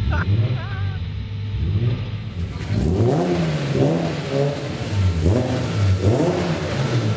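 Drift car's engine revving hard in repeated rises and falls as it spins its rear tyres in a smoky burnout, with a rushing tyre noise that swells about two and a half seconds in.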